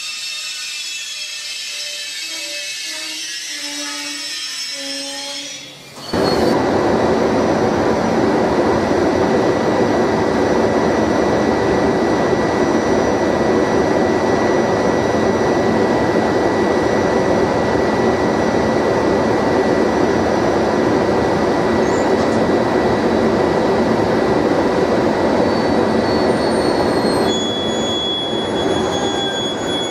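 Electric passenger train at a station: coaches rolling along the platform with a few short tones, then after a sudden break about six seconds in, a louder steady rolling rumble with a thin high whine that eases off near the end.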